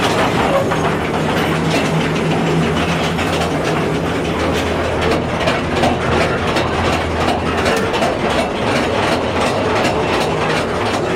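Mine-train ride cars rolling along their track through a tunnel: a steady low rumble with a hum under it and a quick, continuous clickety-clack of wheels on rail joints.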